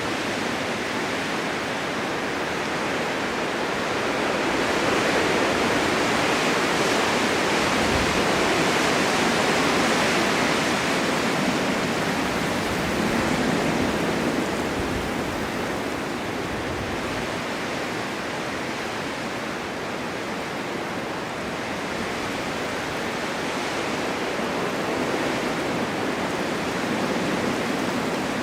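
Blizzard wind driving snow, a steady rushing that swells louder about four seconds in, eases after about eleven seconds, and rises again in smaller gusts later.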